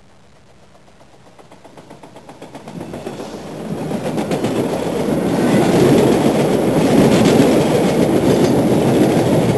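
A train running, its rumbling noise and rapid clicking growing from faint to loud over about the first six seconds, then holding steady.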